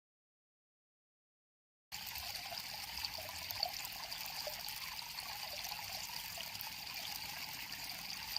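Dead silence, then about two seconds in a river's flowing water cuts in abruptly and runs on as a steady trickling rush.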